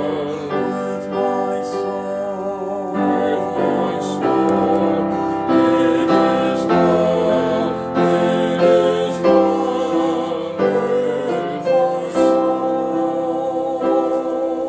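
Slow hymn-style music: piano chords changing every second or so under a held melody line with vibrato.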